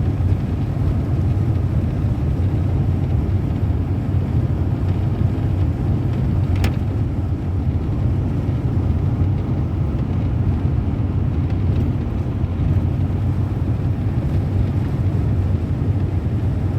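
Steady low rumble of a moving road vehicle's engine and tyres, with one sharp click about seven seconds in.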